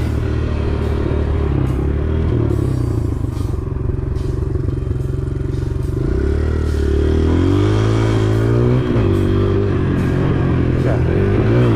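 Motorcycle engine running under way, its pitch holding fairly steady for the first half, then climbing and dropping several times as the throttle is opened and closed.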